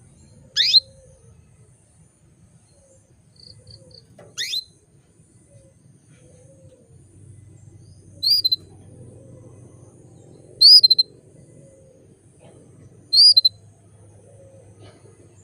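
Female canary giving single chirping calls every two to four seconds, five in all. The first two sweep sharply upward and the last three are short, sharp chirps. These are the calls of a hen in breeding condition calling to a male.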